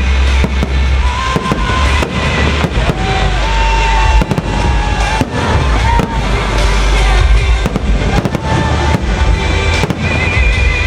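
Fireworks salute going off in a rapid, irregular series of bangs over loud music with a heavy bass.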